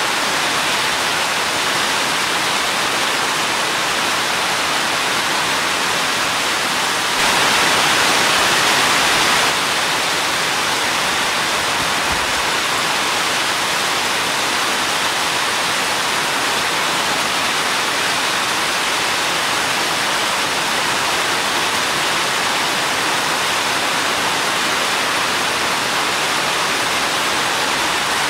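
Steady, heavy rain, an even hiss with no single drops standing out. It swells a little louder for about two seconds, starting around seven seconds in.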